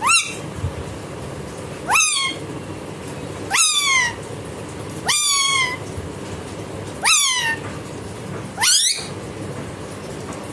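Indian ringneck parrot mimicking a cat's meow: six drawn-out meows spaced about one and a half to two seconds apart, the first rising and the rest sliding down in pitch. A steady low hum runs underneath.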